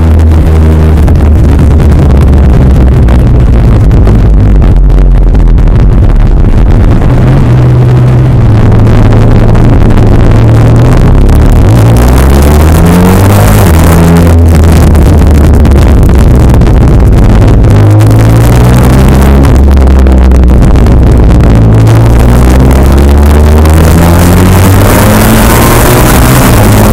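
Honda VFR1200F's V4 engine through a DAM aftermarket exhaust, heard on board while riding: it pulls up in pitch several times under acceleration and drops back between the pulls, once sharply at a gear change.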